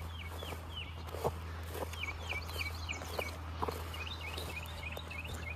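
A songbird calling in quick runs of short, hooked chirps, over footsteps swishing through tall wet grass.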